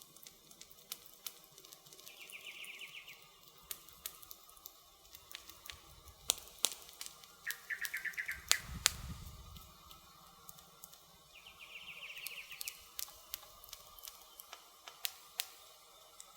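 Wood fire crackling with many sharp pops and snaps, busiest about halfway through, over a low rumble. A bird gives a short rapid trill three times, roughly every four to five seconds.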